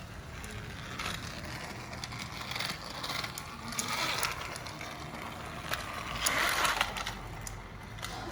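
Battery-powered TrackMaster Turbo Speed Percy toy engine running along plastic track: a small motor whirring steadily with scattered clicks and rattles, louder for a moment about six seconds in.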